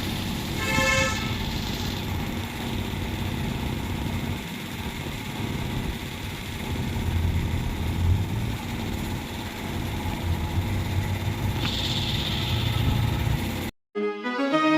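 Steady vehicle noise with a low rumble, and a vehicle horn giving a short toot about a second in. Near the end the sound cuts out and violin music starts.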